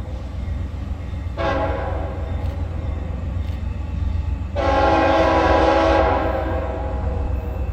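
Freight locomotive air horn sounding two blasts, a short one about a second and a half in and a longer, louder one past the middle, over the steady low rumble of the passing train.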